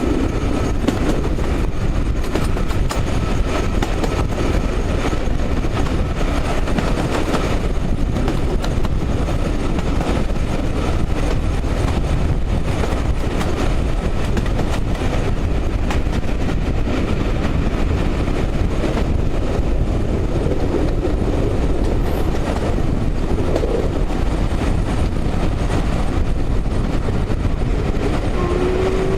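Steam-hauled passenger train, an LMS Black 5 4-6-0 locomotive with its carriages, running past: a steady rumble with the clicking of wheels over rail joints.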